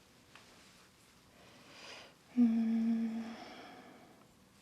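A woman hums one steady, level note for about a second with her mouth closed, fading away, a little after a soft breath-like hiss.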